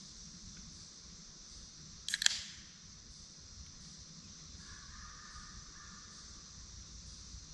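Quiet woodland campsite ambience with a steady high-pitched hiss and faint chirping near the middle. About two seconds in comes a quick cluster of sharp clicks, the loudest sound.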